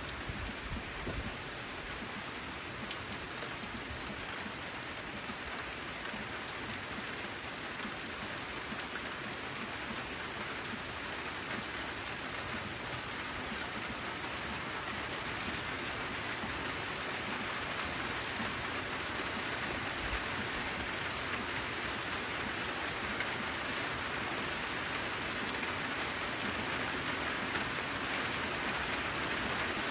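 Steady rain drumming on a corrugated metal (zinc) roof, a dense hiss with scattered individual drop ticks, growing a little louder over the stretch.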